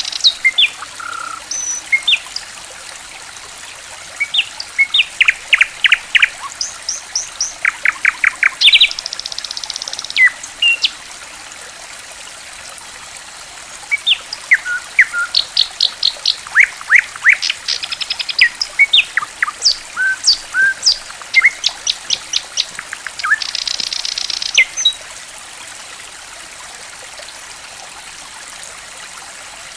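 Small songbirds singing and calling in quick runs of sharp, falling whistled notes, with a few buzzy trills, over a steady trickle of flowing water. The birds pause for a few seconds near the middle and fall silent about 25 seconds in, leaving only the water.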